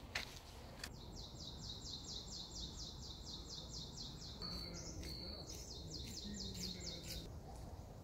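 A songbird singing a long, fast trill of short falling whistled notes, about four or five a second, broken in the middle by a brief held note before the trill resumes. A single sharp click sounds just after the start.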